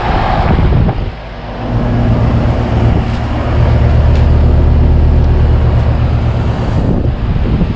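Outdoor heat pump units running in heat mode: a steady low compressor hum with the rush of the outdoor fan. The hum dips briefly about a second in, then comes back louder and steadier.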